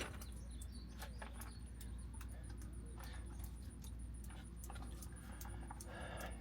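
Scattered light clicks and taps of hands fitting parts back into an RV generator's air filter housing, over a low steady hum.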